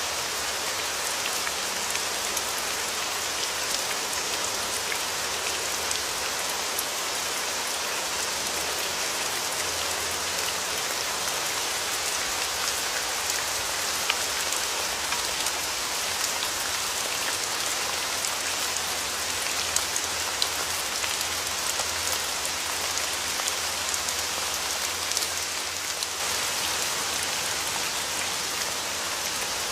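Steady rain falling, an even hiss of rain with a fine patter of individual drops ticking through it.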